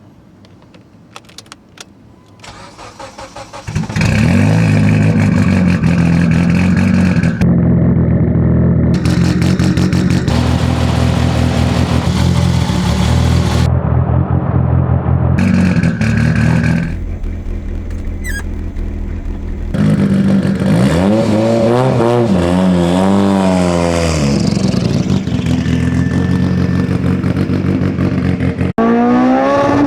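Heavily tuned Mitsubishi Lancer Evolution X's turbocharged four-cylinder engine cranking and catching about four seconds in, then running loud at idle. It is revved up and down repeatedly in the second half.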